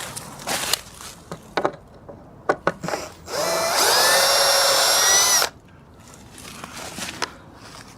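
A few knocks and clicks of handling, then a power drill runs for about two seconds, its pitch rising as it spins up, driving a screw into a wooden fence board, and stops abruptly.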